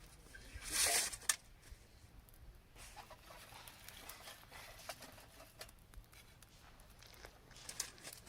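A short rustle about a second in, followed by a sharp click, then scattered faint knocks and rustles and another brief rustle near the end.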